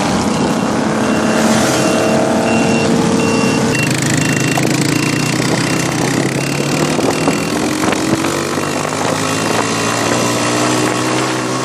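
Several motorcycle engines running in a parade, their notes slowly rising and falling as they idle and rev, with a repeating high beep in the first half.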